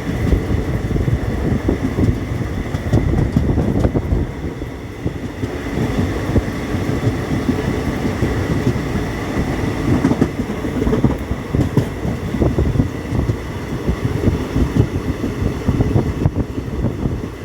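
Moving vehicle running: a loud, steady rumble with many irregular knocks and rattles and a faint steady whine.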